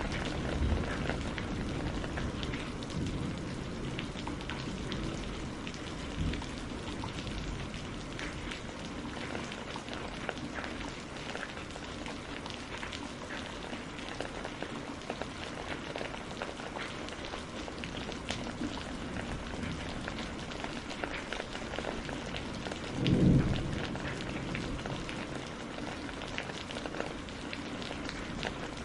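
Steady rain falling on a greenhouse, with many separate drops ticking through the patter. A low rumble of thunder sounds in the first few seconds, and a short, louder low thump comes about three-quarters of the way through.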